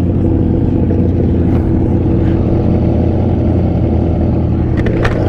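Yamaha R6's inline-four engine running at a steady, unchanging speed, with no revving. A couple of brief clicks come near the end.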